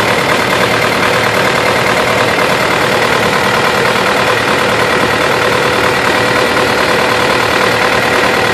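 A tractor engine running steadily and loudly close by.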